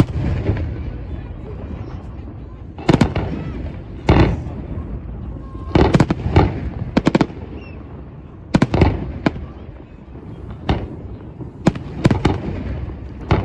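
New Year's Eve fireworks going off: a string of sharp bangs at irregular intervals, some in quick pairs, over a continuous rumble of many more distant fireworks.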